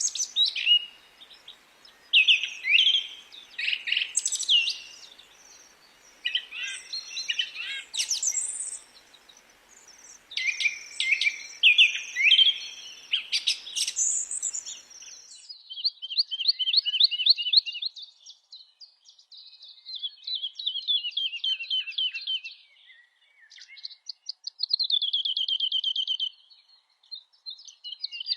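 Songbirds singing. For about the first half there are varied high whistled and chirped phrases. Then the background hiss drops out abruptly and a bird takes over with fast, high trills repeated in phrases of a second or two.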